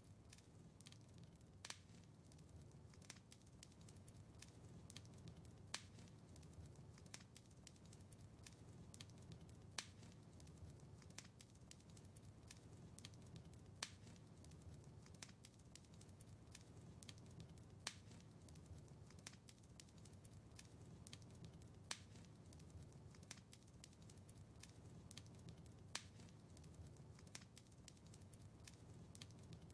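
Wood fire in a fireplace crackling: a steady, soft low rumble of burning with many small crackles and a sharper, louder pop about every four seconds.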